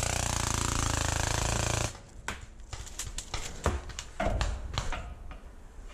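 Paintball marker firing a rapid continuous burst for about two seconds, then a series of separate single shots. The magazine is emptied by the firing.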